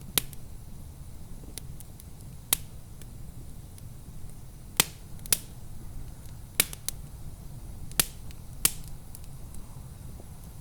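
Wood fire crackling, with sharp irregular pops about every second or two over a low steady rumble.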